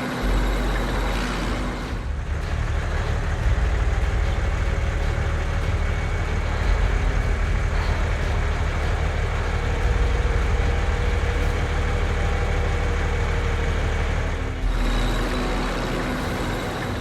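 Heavy truck engines running with a steady low rumble.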